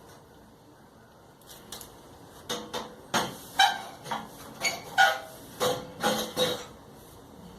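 A series of about ten sharp metallic knocks with a short ring, unevenly spaced and loudest in the middle, as clips and sheet-metal parts of a clothes dryer are tapped into place.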